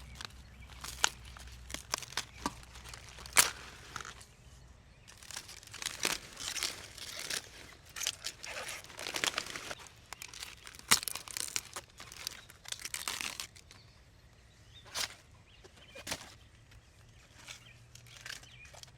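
Irregular rustling and crinkling with many scattered sharp clicks and taps, busiest through the middle stretch.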